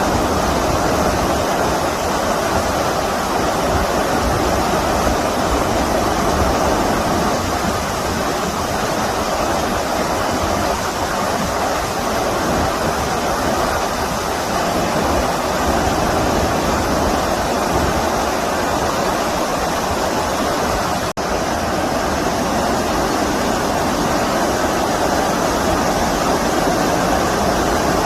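Stream water rushing steadily, a constant full sound of flowing water over the streambed. The sound drops out for an instant about three-quarters of the way through.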